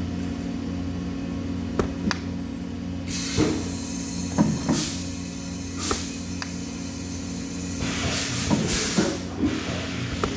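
Workshop ambience: a steady machine hum, with several short hisses and a few sharp clicks and metallic knocks.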